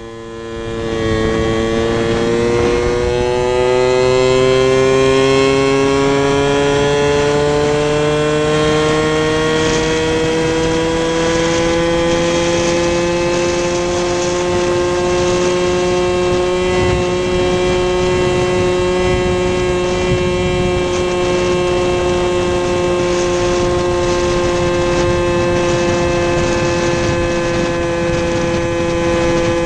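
Two-stroke engine of a Benelli X50 scooter, bored to 70cc with a Malossi kit and fitted with a Pro Boss Techno exhaust, pulling away: its pitch rises steadily for several seconds as it accelerates, then holds at high, steady revs.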